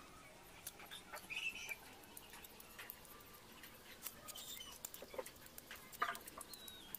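Soft clicks of chewing and lip-smacking as food is eaten, with a few short high chirps.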